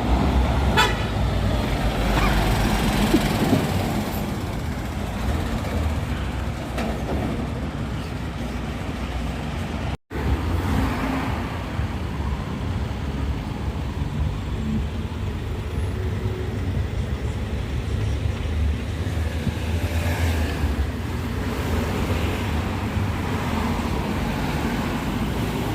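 Large vehicles running with a steady low engine rumble and traffic noise. The sound cuts out for a moment about ten seconds in, where two clips are joined.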